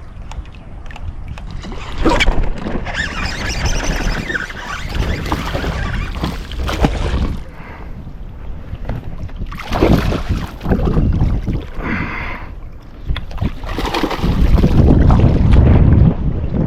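Wind buffeting the microphone over water noise from a small fishing boat, in irregular gusts, with a heavy low rumble building near the end.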